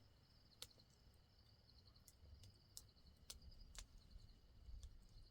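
Near silence with faint insect chirring, a steady pulsing trill, and a few scattered sharp clicks.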